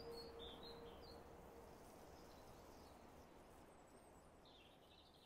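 Near silence: faint bird chirps, a few at the start and a few more near the end, over a soft background hiss that is fading out. The last of a ringing, bowl-like musical tone dies away in the first two seconds.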